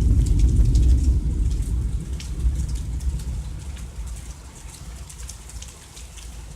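Thunderstorm: a low rumble of thunder, loudest in the first second or so and slowly fading away, over steady rain with the scattered ticks of drops hitting nearby surfaces.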